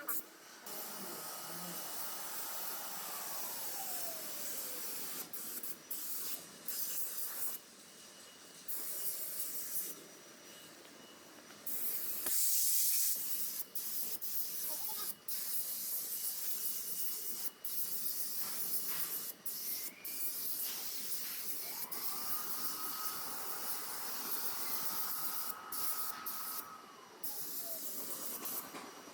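Compressed-air hiss from body-shop air tools, broken off and restarted several times. Twice a tool's whine holds steady and then falls away as it spins down.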